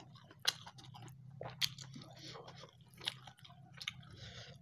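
Close-miked chewing of a mouthful of shrimp balado and rice, soft wet mouth sounds with a few sharp smacks.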